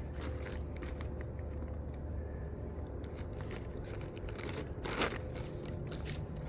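Scattered light clicks and scrapes of a wrench working on bolts of a wood chipper's four-stroke engine, one knock a little louder about five seconds in, over a steady low hum.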